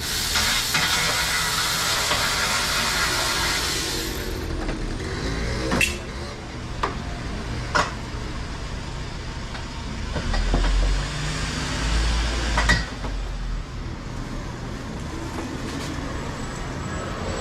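Gas hissing out under pressure for about four seconds, then a few sharp knocks and clicks with a low rumble in between.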